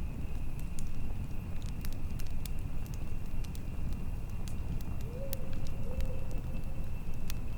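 Campfire burning with irregular sharp crackles and pops over a low rumble of fire and wind. A faint steady high tone runs underneath, and a short low call sounds about five seconds in.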